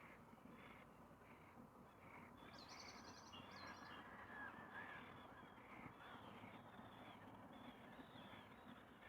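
Faint, distant birds calling over a quiet background hiss. A call repeats about twice a second at first, a short rapid high trill comes about two and a half seconds in, and overlapping calls follow.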